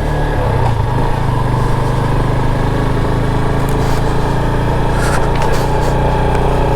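Motorcycle engine running steadily under way, with a couple of brief rattles about four and five seconds in.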